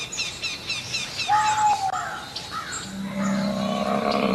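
Birds chirping: a quick run of high chirps, then a single falling whistle about a second in. Near the end a low, steady, drawn-out sound comes in.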